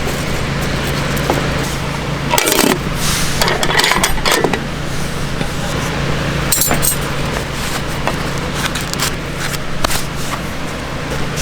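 Small hard items clinking and scraping in a few quick clusters, over a steady low hum and hiss.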